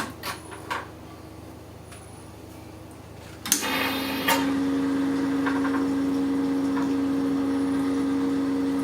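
A few light clicks, then, about three and a half seconds in, a milling machine switches on with a short burst of hiss and settles into a steady mechanical hum.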